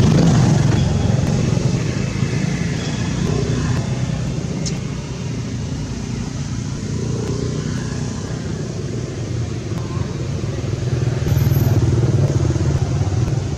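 Steady low engine noise of passing road traffic, with a motorcycle-like motor swelling louder about eleven seconds in.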